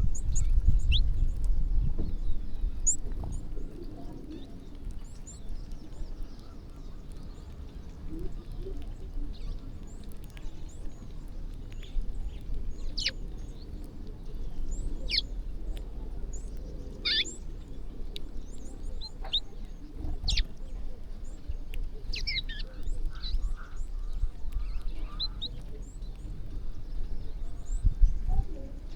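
Small birds chirping in short, scattered calls, several at once, over a low rumble that swells in the first few seconds and again near the end.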